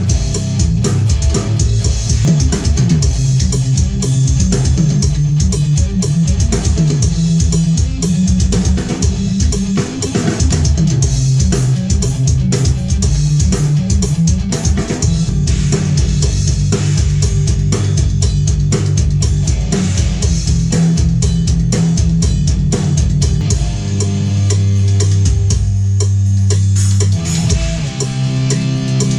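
Heavy band music with drum kit, bass guitar and guitar playing, driven by a fast, dense kick-drum pattern. About 24 seconds in, the drumming drops out under a held low note for a few seconds before picking up again.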